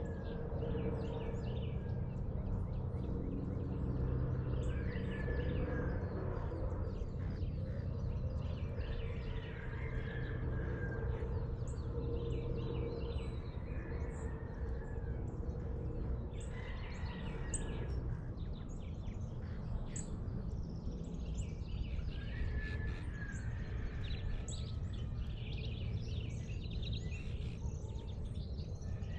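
Several birds calling and chirping in short, scattered notes over a steady low rumble and hum.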